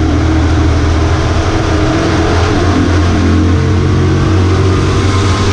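V8 race truck engine running at a steady, fairly constant pitch, with road and wind hiss over it.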